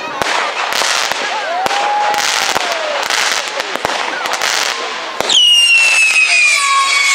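Fireworks display with repeated sharp bangs and crackling. From about five seconds in, a loud shrill whistle starts, falling slowly in pitch: a whistling firework.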